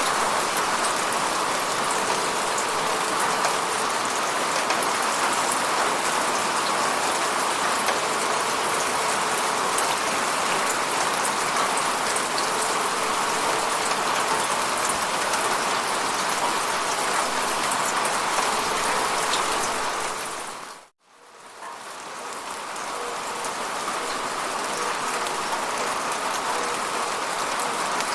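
Steady rain falling, an even hiss of drops. About three quarters of the way through it fades out almost to silence and then fades back in over a couple of seconds.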